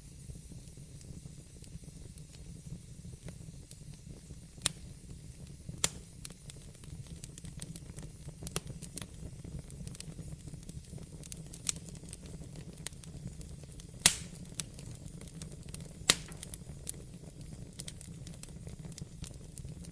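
Fire in a fireplace crackling: a low, steady rumble of flame under many scattered small snaps. A few louder pops stand out, the two loudest about three-quarters of the way through.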